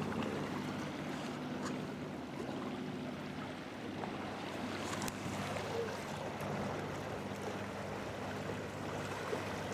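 Sea water lapping and sloshing steadily around a sea kayak on the water.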